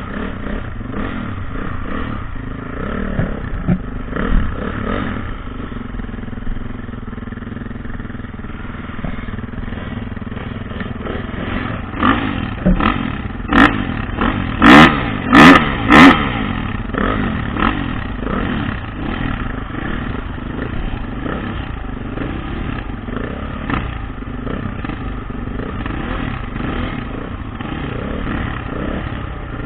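Dirt bike engine running and revving on and off the throttle, with a quick run of four loud knocks about halfway through.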